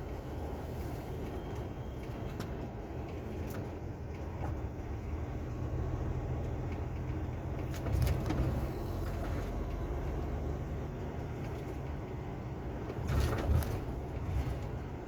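Truck on the move: a steady low engine and road rumble, with brief knocks or rattles about eight seconds in and twice near the end.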